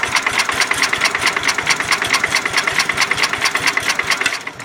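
Sears Suburban lawn tractor's starter-generator cranking the engine in an even run of about eight strokes a second, then stopping suddenly. The engine does not catch because the tank is out of gas.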